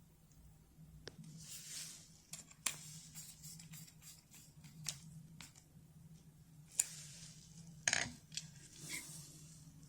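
Faint clicks and light scraping of small plastic game-controller parts being handled and screwed back together, with a few sharp ticks spread through and a faint low hum underneath.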